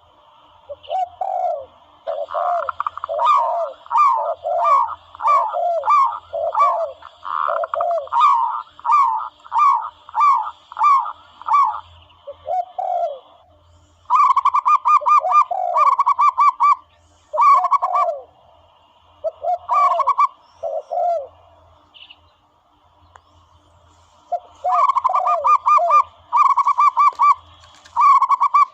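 Recorded dove calls: long runs of short, quickly repeated cooing notes, higher and lower notes interleaved, breaking off for a few seconds about two-thirds through before starting again. A faint steady high tone sits beneath them.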